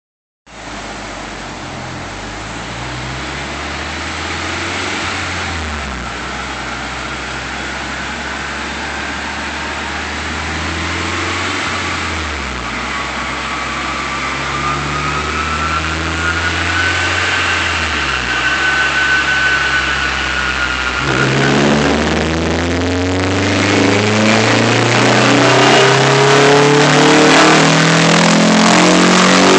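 Honda S2000's naturally aspirated four-cylinder engine, heard through an aftermarket Fujitsubo exhaust, run on a chassis dyno. The revs climb and fall back three times, about six seconds apart, like upshifts through the gears, with a thin whine over the top. From about two-thirds of the way in, the engine pulls hard, its pitch and loudness rising steadily to the end.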